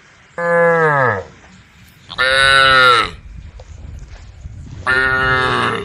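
Cows mooing: three loud, drawn-out calls about a second each, the first one sliding down in pitch.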